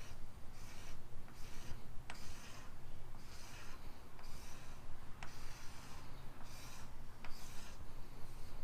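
Repeated scraping strokes across the kayak's plastic hull at the filled scratch, about one and a half strokes a second, each a short hiss.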